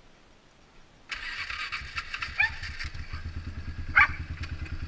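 Polaris Magnum 425 ATV's single-cylinder four-stroke engine starting about a second in and settling into a steady idle through a DG Performance RCM-II aftermarket muffler, with even exhaust pulses. A few short high squeaks sound over it, the loudest about three seconds in.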